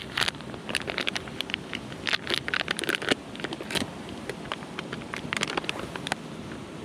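Wood fire crackling with irregular sharp snaps, dense in the first half and sparser later, over the steady rush of a mountain stream.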